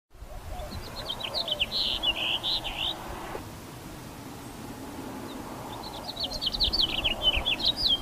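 House finch singing: two fast, jumbled warbling phrases of high notes, one in the first three seconds and another near the end, over faint outdoor background noise.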